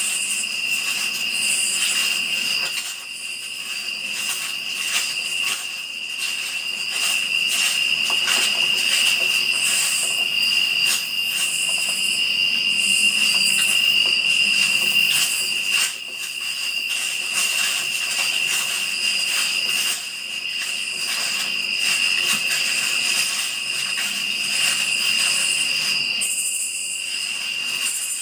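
Crickets chirping in a steady, continuous high trill, with scattered faint clicks over it.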